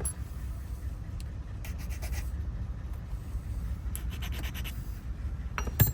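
A hand file rasping on a key's last cut to take a little more metal off, in two short runs of strokes over a steady low rumble. A sharp click near the end.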